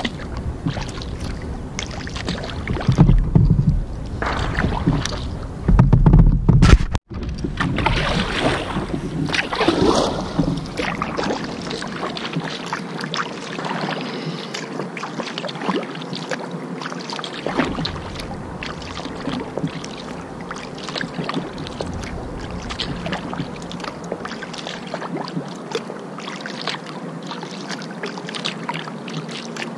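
Kayak paddle strokes swishing and splashing in river water, a steady wash of water noise with many short splashes. Heavy low rumbles come twice in the first seven seconds, and the sound cuts out for an instant just after that.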